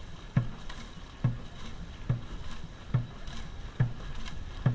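A dragon boat crew paddling at race pace, each stroke landing with a sharp low thump in a steady rhythm of a little more than one stroke a second, over a constant rush of water and wind.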